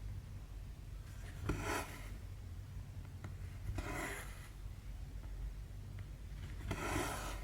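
Cotton embroidery floss drawn through 14-count cross stitch canvas, three long rubbing pulls about three seconds apart, over a steady low hum.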